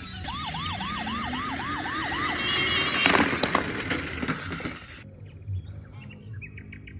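Electronic toy police car siren sounding a fast yelp: quick rising whoops, about three a second, for around two seconds. A loud knock follows about three seconds in, and the sound cuts off abruptly near five seconds, leaving a quieter background with faint ticking.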